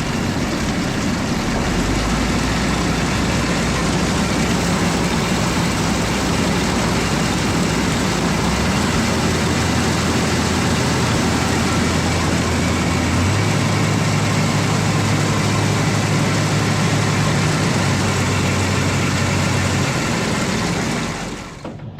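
Farm tractor engine running loud and steady, its low pitch stepping up three times as the engine speeds up, then dropping away near the end.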